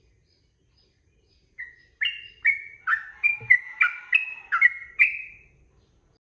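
Sooty-headed bulbul (trucukan) singing: after a second and a half of quiet, a quick phrase of about ten short whistled notes that runs for about four seconds, then stops.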